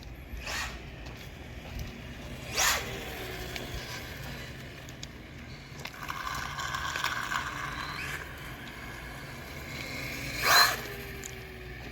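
Losi 1/4-scale Promoto-MX electric RC dirt bike with its rear tire spinning and scraping in loose dirt under hard throttle. This happens in two short, loud bursts, about three seconds in and near the end. Each is followed by a short falling whine as the motor winds down, and a steadier whine runs in between.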